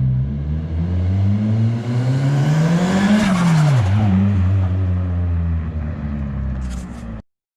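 Modified 345 bhp Nissan 200SX S14a drift car's engine revving: the pitch climbs steadily for about three seconds, drops quickly, then holds a steady lower note until the sound cuts off suddenly near the end.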